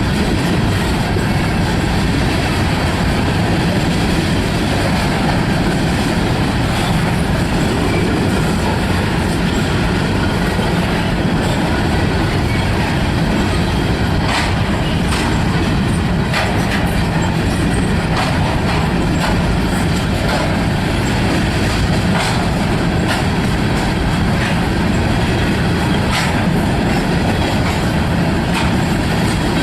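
Freight train cars rolling past at speed: a steady, loud rumble of wheels on rail, with scattered sharp clicks from the wheels striking rail joints, more frequent in the second half.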